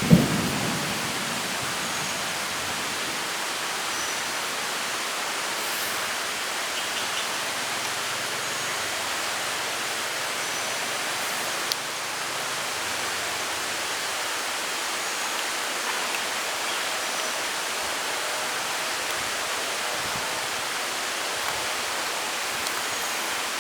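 Steady rain falling, an even hiss throughout, with one sharp thump right at the start and a small click about halfway through.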